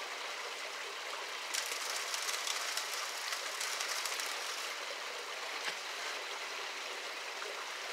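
Water running steadily, splashing and crackling more strongly for a few seconds starting about one and a half seconds in.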